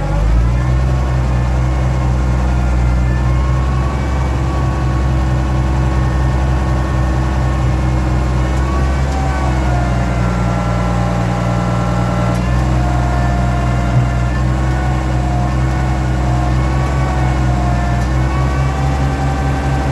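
Oliver 1650 tractor engine running steadily, with the hydraulic pump whining over it as the loader is worked; the whine changes pitch several times. The hydraulics are whiny from the below-freezing cold and from running a little low on hydraulic oil.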